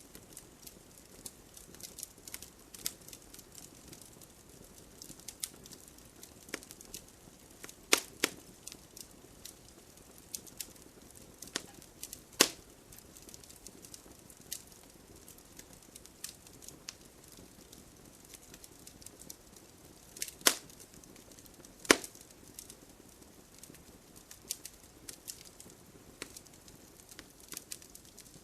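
Campfire crackling: burning wood gives off a stream of irregular small crackles over a faint hiss, with four louder pops, about 8, 12, 20 and 22 seconds in.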